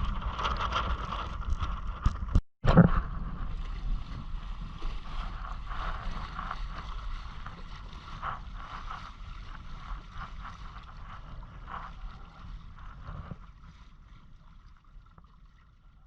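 Wind buffeting the microphone over the water noise of a Hobie Island sailing kayak under way. A brief dropout and a sharp knock come about two and a half seconds in, then the sound slowly fades out.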